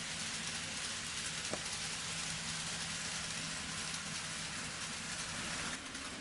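N scale model train running on layout track: a steady rolling hiss with a low motor hum, one short click about a second and a half in, easing slightly near the end.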